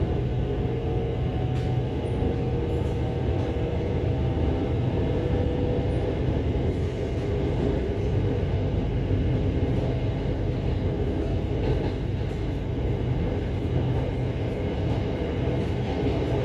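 Hitachi electric commuter train of the SRT Light Red Line running along the track, heard from inside the car: a steady low rumble with faint humming tones above it.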